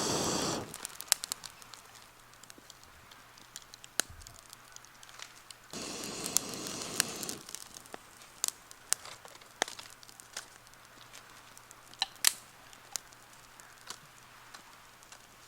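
Wood campfire crackling, with scattered sharp pops and snaps. A loud rushing hiss is heard at the start and again for about a second and a half around six seconds in.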